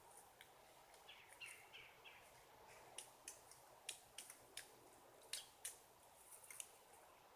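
Faint, irregular sharp taps, typical of a pileated woodpecker pecking at wood, coming mostly in the second half. A few short high bird chirps sound in the first two seconds.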